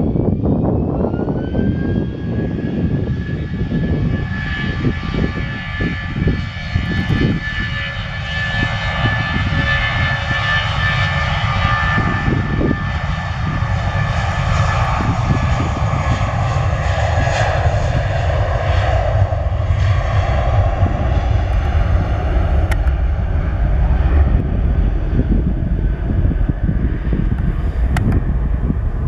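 Airbus A320-232 airliner's IAE V2500 turbofan engines at takeoff power. A whine rises in the first couple of seconds, then holds steady over a loud roar, and the low rumble grows stronger in the second half.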